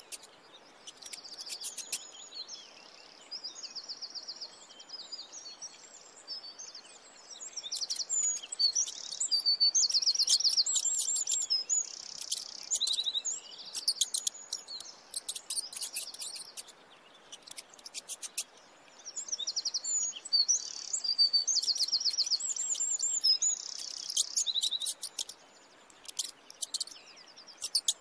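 Small birds chirping and trilling in quick high-pitched bursts that come and go in groups with short pauses between.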